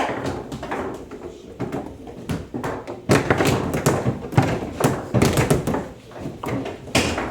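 Table-football (foosball) play: the hard ball knocking against the rod figures and the table walls, with rods clacking. There are scattered knocks at first, then a dense flurry of rapid hits from about three seconds in.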